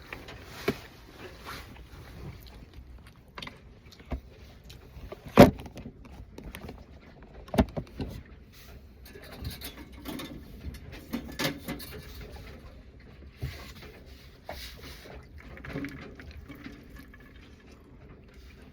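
A person eating: scattered clicks, knocks and small handling noises, with a sharp loud knock about five seconds in and another about two seconds later.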